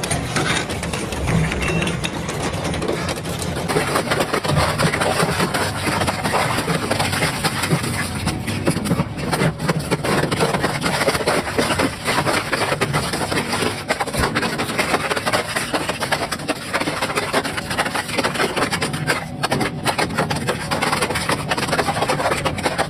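Double-shaft shredder running, its cutter shafts crunching and breaking up material in a dense, continuous crackle of snaps and cracks over a steady low rumble of the drive.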